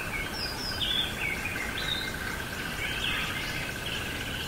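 Birds chirping in short, varied calls over a steady, rapidly pulsing insect trill, like a cricket, with a hiss of outdoor ambience underneath.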